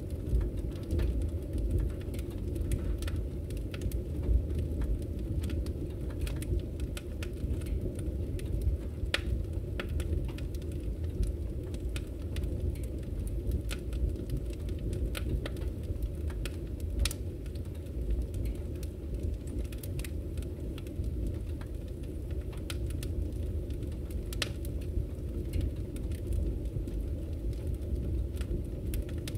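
Wood fire in a fireplace crackling, with irregular sharp pops and snaps over a steady low rumble of the burning flames.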